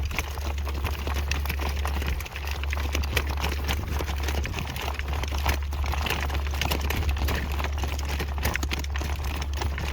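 Hoofbeats of a young horse trotting, a run of clops, over heavy wind rumble on the microphone.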